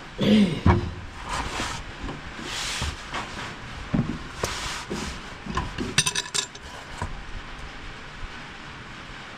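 Irregular knocks, scrapes and metallic clinks of hand tools being handled, with a sharp ringing clink of metal on metal about six seconds in.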